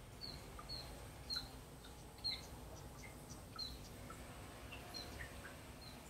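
Songbirds chirping: short, high chirps at irregular intervals of roughly half a second to a second, with fainter, lower notes from other birds in between.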